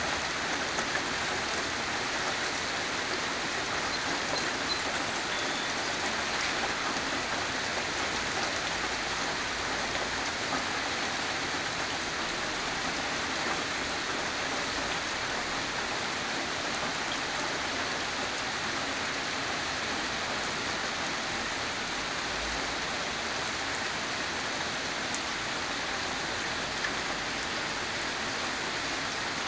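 Steady rain falling, an even, continuous hiss with no let-up.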